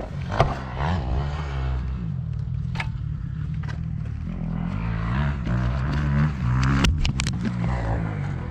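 Yamaha YZ450F's single-cylinder four-stroke engine being ridden, its pitch rising and falling again and again as the throttle opens and closes, with a few sharp knocks and clicks.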